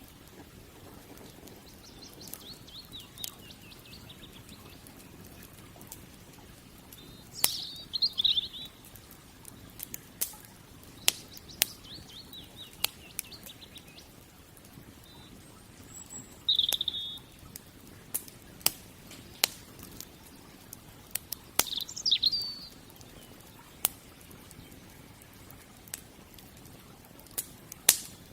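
Wood fire crackling with sharp, irregular pops over a low steady hiss, while a bird sings several short runs of quick, high chirps.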